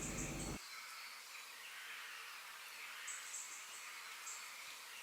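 Faint background nature ambience of high-pitched chirping, in short clusters every second or so. The low room sound drops away about half a second in, leaving only the chirping and a soft hiss.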